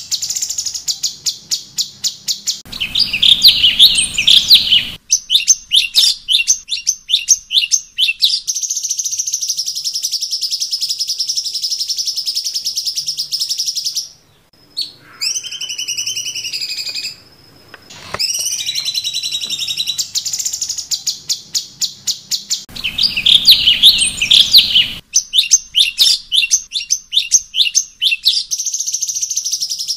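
Cucak cungkok songbird singing loudly in a looped training recording: fast trains of sharp chattering notes alternate with long, high ringing trills. About halfway through there is a short lull with a softer falling call before the same song sequence repeats.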